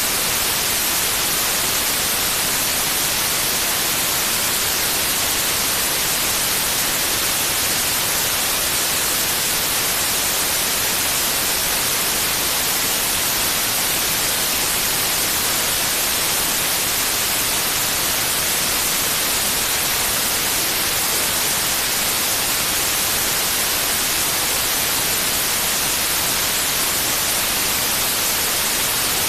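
Steady white noise: an even, unchanging hiss, strongest in the high treble, with no breaks or events.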